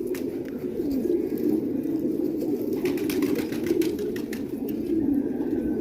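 A flock of domestic pigeons cooing together, their overlapping low, warbling coos running on without a break.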